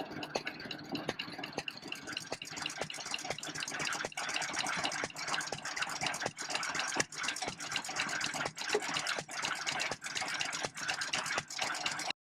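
Vintage stationary engine running, with a steady clatter of sharp mechanical knocks several times a second.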